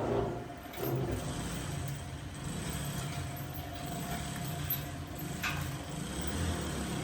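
Workshop machinery running with a steady low rumble and a faint steady hum, broken by a few short knocks.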